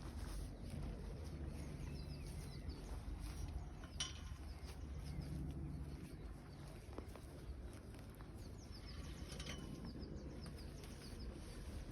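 Outdoor background with faint small-bird chirps over a low steady rumble, and a single sharp click about four seconds in.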